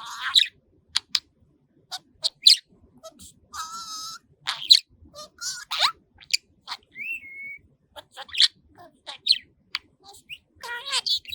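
Budgerigar chattering in a run of quick high chirps, clicks and short whistles, with a scratchy warble about four seconds in and a short whistled note about seven seconds in.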